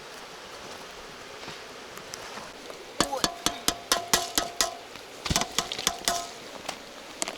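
Metal cookware clinking: a quick run of knocks with a ringing metallic tone about three seconds in, then a second, shorter clatter a couple of seconds later.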